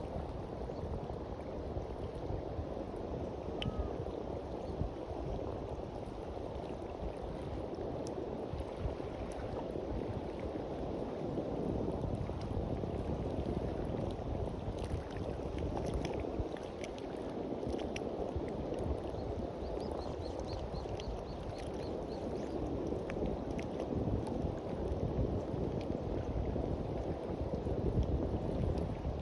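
Small sea waves washing steadily onto the beach, with low rumbling gusts of wind on the microphone.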